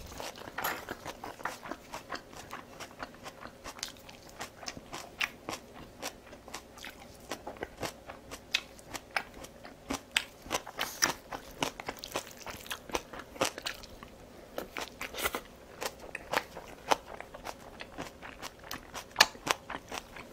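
Close-miked chewing and biting of crunchy deep-fried battered food: a dense run of quick, crisp crunches and crackles from the mouth.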